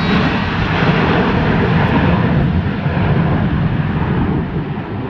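Blue Angels F/A-18 Super Hornet jets making a pass, a loud, continuous jet engine noise that eases slightly near the end.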